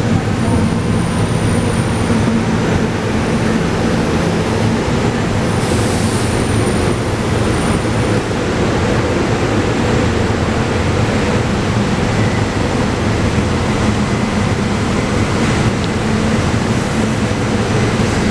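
SEPTA Silverliner IV electric multiple-unit train pulling in along an underground station platform. Its wheels and motors give a steady rumble that echoes in the enclosed station, with a faint high whine over the first half.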